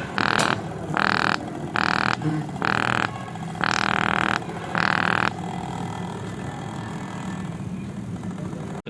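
Repaired refrigerator compressor running with a steady hum, while air hisses from it in about half a dozen irregular bursts, each under a second long. The bursts stop about five seconds in and the hum goes on alone.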